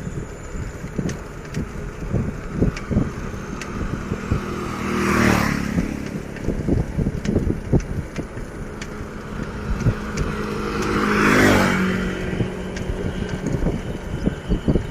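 Two motor vehicles passing close by, one about five seconds in and another about six seconds later, each engine swelling and fading as it goes past. Under them runs a steady low rumble with small knocks.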